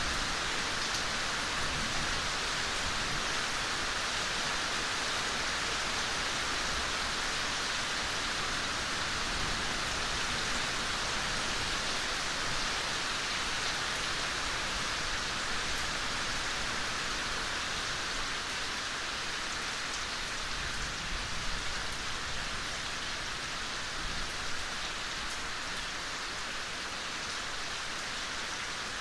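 Steady, gentle rain falling in a forest, an even hiss with a few individual drops ticking now and then.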